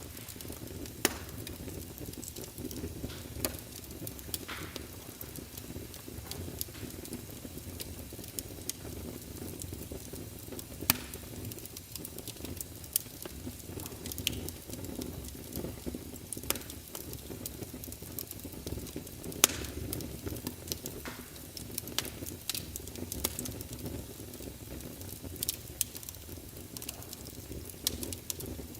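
Wood fire crackling: a steady low rumble of flames with scattered sharp pops and snaps, a few standing out loudly.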